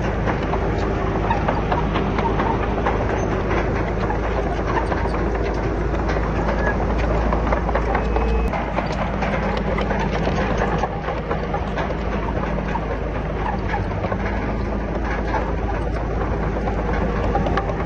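Komatsu D31PX crawler bulldozer working: the diesel engine runs steadily under a continuous rattling clatter of steel tracks and pushed rock. The low engine note shifts slightly about halfway through.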